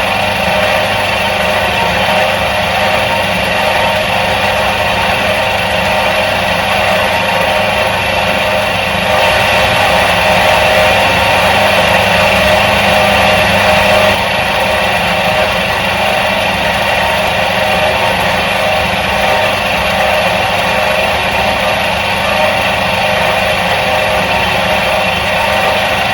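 Electric motor of a 1977 Soviet washing machine running steadily with a constant hum. It grows a little louder about nine seconds in, then drops back suddenly about five seconds later.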